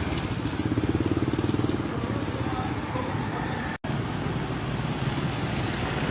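A small engine running steadily with a fast, even beat, under a broad hiss, broken by a brief dropout about four seconds in.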